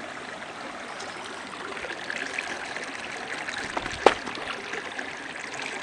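Creek water running and trickling over rocks, a steady rushing noise, with one sharp click or knock about four seconds in.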